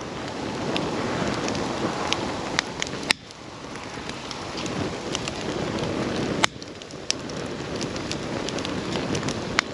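Wood campfire burning with a steady hiss and frequent sharp crackles and pops. The hiss cuts out abruptly about three seconds in and again past six seconds, then builds back each time.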